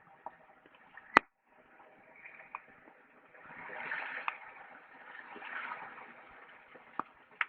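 Wood fire crackling with scattered sharp pops, one loud pop about a second in, and two swelling hissing rushes in the middle.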